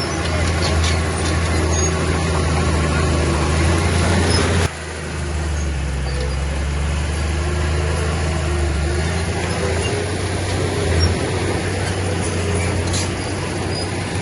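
Diesel engine of heavy earthmoving machinery running with a steady low drone. About a third of the way in the sound drops abruptly and settles into a slightly different, quieter drone.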